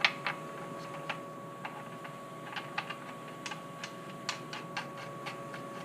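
Scattered, irregular light clicks and taps of tools and a part being handled as a fastener is started by hand, over a steady faint hum.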